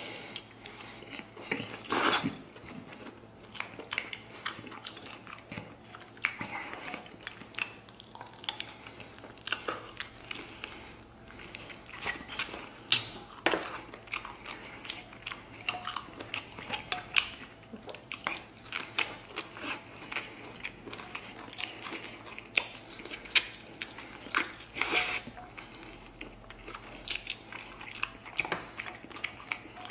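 A person chewing and biting braised fatty-and-lean pork belly close to the microphone: irregular wet smacks and small clicks of the mouth, a few louder than the rest. Light clinks of tableware come now and then.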